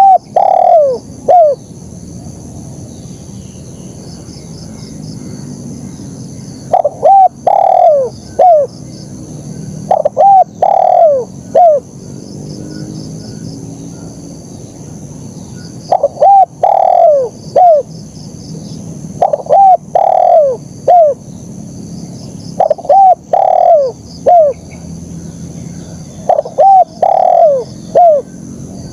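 Spotted dove (terkukur) cooing: phrases of three or four falling coos, repeated every few seconds, over a steady high-pitched insect drone.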